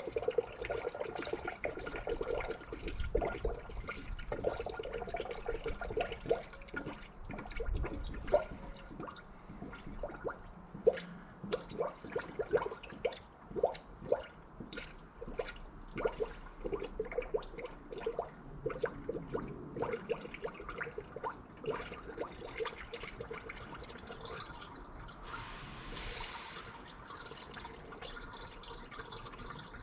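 Engine coolant being poured from a gallon jug into a funnel on the radiator, pouring and splashing, with a run of uneven glugs through the middle as the jug drains.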